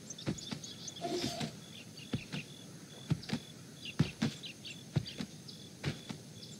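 Small birds chirping now and then, over a scatter of irregular sharp knocks, a couple a second.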